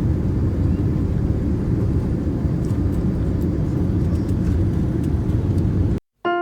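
Steady low rumbling jet noise from a Boeing 787 airliner. It cuts off abruptly about six seconds in, and electric-piano music begins just before the end.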